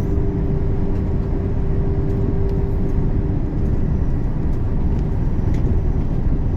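Volvo truck driving, heard from inside the cab: a steady low drone of diesel engine and road noise, with a faint steady whine that fades out a little past halfway.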